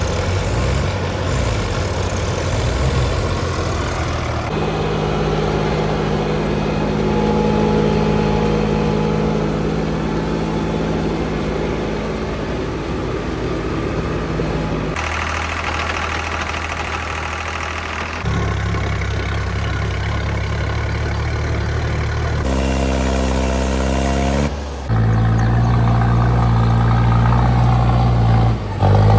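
Tractor engines running loud and steady in a run of short clips, the engine pitch changing abruptly at each cut; in one stretch near the end an engine's pitch falls steadily.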